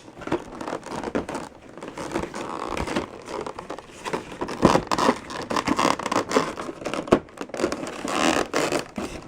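Plastic packaging being handled and pulled at, irregular scraping and crinkling with scattered clicks as a toy is worked loose from the plastic pieces securing it.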